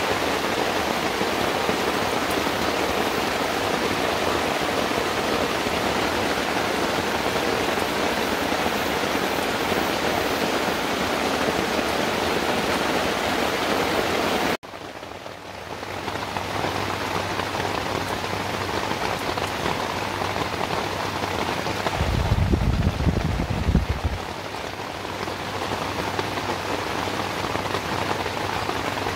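Heavy rain falling on a tarp and gravel ground, a dense steady hiss. About halfway through it cuts abruptly to softer rain on tent fabric with a faint low hum, and about three-quarters of the way in a loud low rumble lasts about two seconds.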